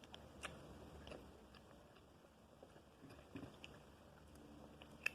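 Faint sounds of a person eating crab by hand: quiet chewing with scattered small clicks and cracks from the shell, and one sharper click near the end.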